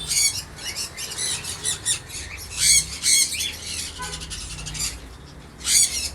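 Several caged pet parrots squawking and chirping, many short high calls overlapping, with sharper screeches about two and a half seconds in, about three seconds in and near the end.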